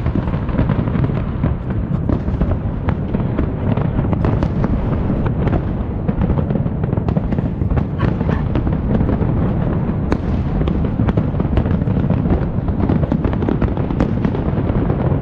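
A New Year's fireworks display exploding continuously: a dense rumble of overlapping booms with many sharp cracks and crackles, loud and without pause.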